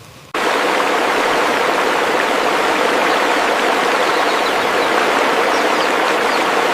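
Loud, steady rush of running water, cutting in suddenly just after the start.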